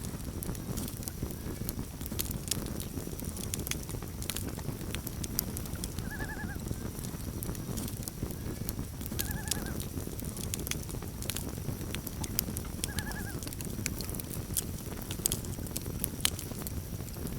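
Campfire crackling and popping over a low steady rumble, with three short, wavering loon calls a few seconds apart.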